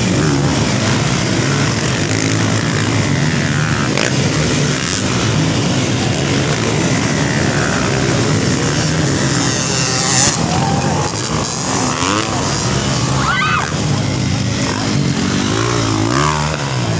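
Motocross dirt bikes racing, their engines revving up and down as they pass.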